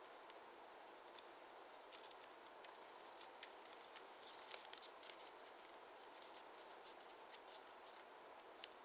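Near silence with faint, scattered crinkles and taps of origami paper being handled and creased, a little busier around the middle.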